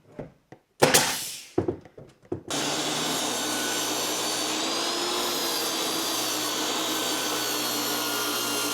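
Nails driven into wooden trim, a few sharp knocks with the loudest about a second in, then a motor-driven machine starts suddenly and runs steadily at one pitch for about seven seconds before cutting off.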